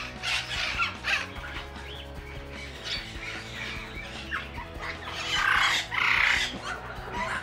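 Parrots squawking: a burst of harsh calls in the first second, then a louder, longer run of squawks about five to six and a half seconds in, over background music.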